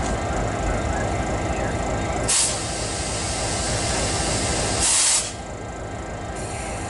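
Canadian Pacific diesel locomotive idling with a steady low rumble, broken twice by short, sharp hisses of air released from the train's air brake system, the second a little longer and louder.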